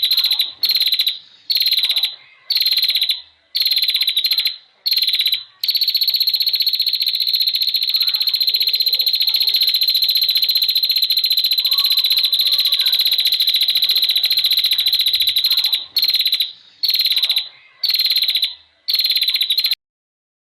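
A harsh, rapid buzzing trill, recorded for a songbird-training track. It comes in bursts of about a second with short breaks, then runs unbroken for about ten seconds, then breaks into bursts again and cuts off suddenly near the end.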